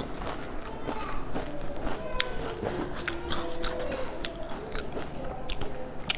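Close-miked chewing: irregular wet mouth clicks and smacks as food is chewed.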